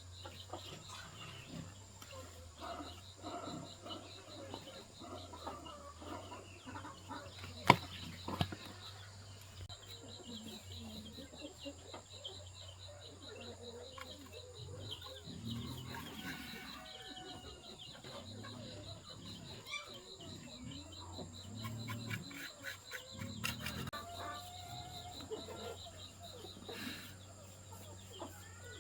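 Chickens clucking on and off, over a steady high-pitched drone. A single sharp knock comes about eight seconds in.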